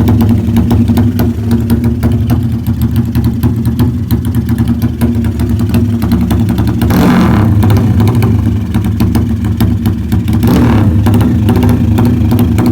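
Motorcycle engine with an aftermarket racing exhaust running loud at idle with a rapid popping exhaust beat, revved briefly twice: a little past halfway and again near the end.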